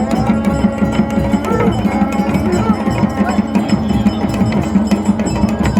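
Loud music of fast, steady drumming with bell-like metallic strikes over a steady low tone.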